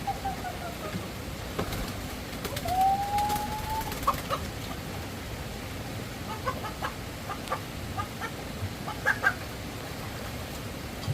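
Chickens calling over a steady background hiss: one drawn-out call about three seconds in, followed by a scattered run of short clucks.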